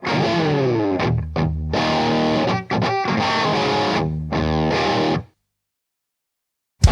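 Distorted electric guitar playing a solo riff in short phrases with brief breaks, opening with a sliding fall in pitch. It stops dead about five seconds in, and after a second and a half of silence the band comes in loudly right at the end.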